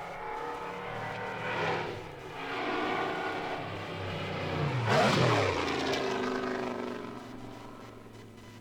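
Mercedes-Benz eight-cylinder Grand Prix car approaching at speed and passing by. Its engine note is loudest and drops in pitch about five seconds in, then fades away.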